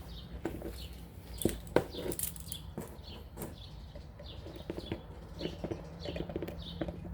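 Small birds chirping repeatedly in short calls, with a few sharp clicks and knocks of handling over a low steady hum.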